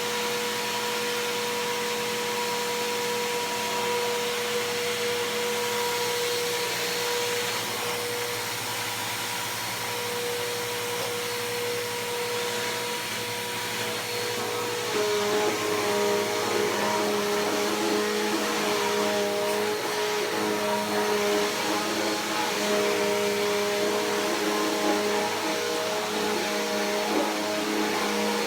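Bissell PowerForce Helix Turbo upright vacuum cleaner running steadily, a motor whine over a rush of airflow. About halfway through, the pitch of the whine shifts and it gets slightly louder.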